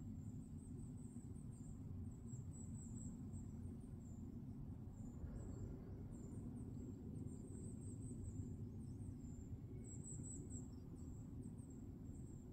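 Faint woodland ambience: rapid high-pitched chirping repeating throughout, over a steady low rumble of wind.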